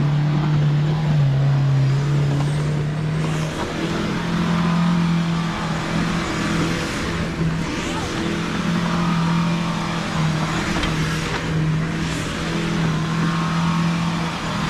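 Mahindra Thar's engine running under load at fairly steady revs. Its pitch settles early on and steps up slightly about four seconds in, under a rushing noise that swells every four to five seconds.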